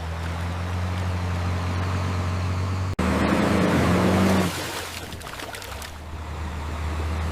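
Dump truck engine running steadily with a low hum. About three seconds in it cuts abruptly to a louder stretch of rushing noise lasting over a second, then the steady engine hum returns.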